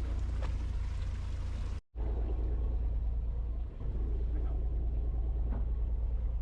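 Fishing boat's engine running with a steady low rumble, under a hiss of wind and water; the sound cuts out for an instant about two seconds in.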